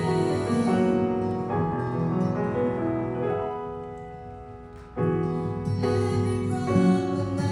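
Piano playing sustained chords. They die away from about three seconds in, and a new chord strikes at about five seconds.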